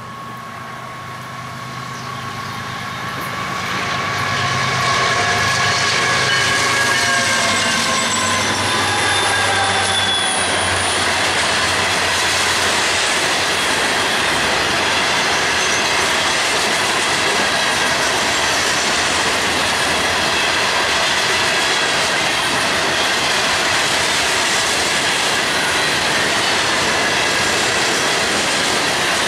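Florida East Coast freight train approaching and passing, led by a GE ES44C4 diesel. The locomotive's engine drone and whine grow louder, then fall in pitch as it goes by. The noise then settles into a steady rumble and clatter of rock hopper cars rolling past, with high wheel squeal.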